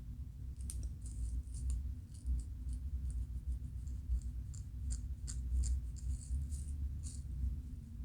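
Scalp being scratched to loosen dandruff flakes: short, dry, irregular scratching strokes against the hair and skin, over a low steady rumble.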